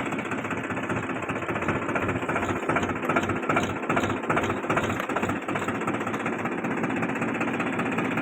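Farm tractor's diesel engine running steadily with an even, fast clatter while the tractor is backed up to hitch an implement.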